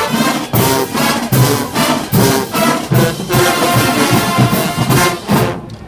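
High school marching band playing, brass over steady drum hits about twice a second, stopping just before the end.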